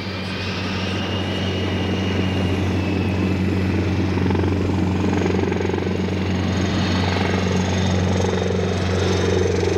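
Aircraft engine noise: a steady drone with a low hum, growing slightly louder.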